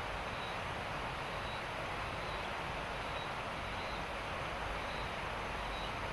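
Steady hiss of heavy rain, with a faint high chirp repeating about once a second.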